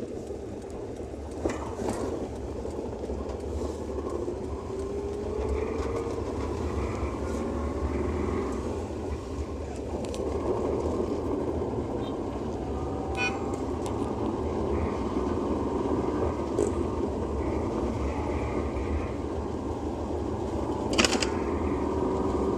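Car driving on a rain-soaked, waterlogged road: steady tyre and road noise with the engine's pitch slowly rising as it picks up speed, and a few sharp clicks.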